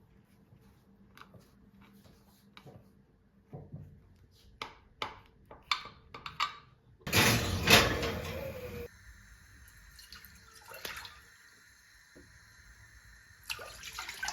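Light kitchen clicks and taps, then water running for about two seconds, the loudest sound here, before it stops abruptly.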